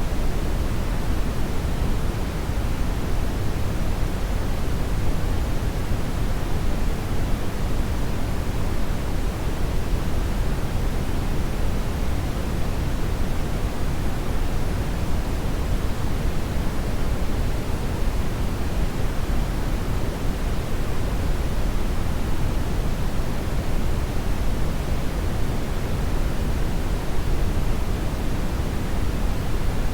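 Hair dryer running steadily, a constant even rush of blowing air with its weight in the low end and no change in pitch or level.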